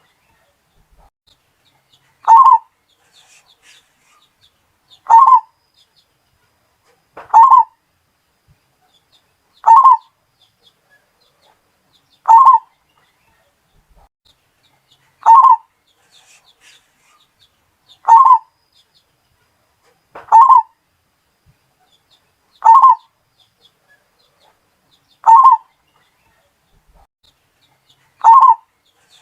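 Zebra dove (Bali-type perkutut) cooing: a short, loud coo phrase repeated at a steady pace, about every two and a half seconds, eleven times.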